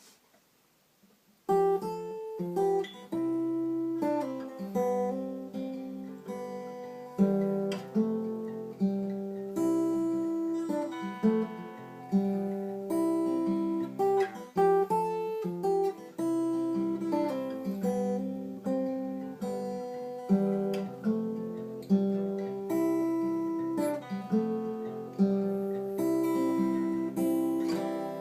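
Seagull acoustic guitar playing a song intro, chords picked and strummed in a steady rhythm, starting about a second and a half in.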